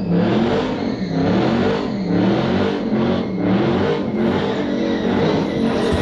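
A car's combustion engine being revved over and over, its pitch rising and falling about once a second.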